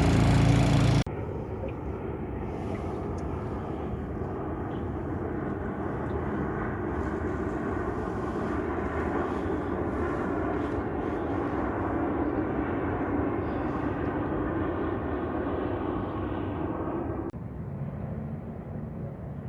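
Honda 20 hp four-stroke outboard motor running. It is loud and bright with wind noise for about the first second, then abruptly quieter and duller, a steady drone that swells a little and drops again suddenly near the end.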